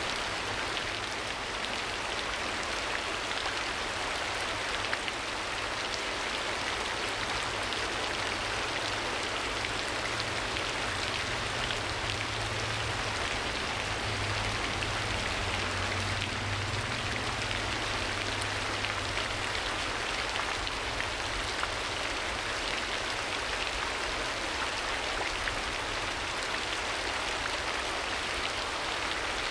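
Steady rain ambience: dense patter of raindrops falling on a surface, with a low hum underneath.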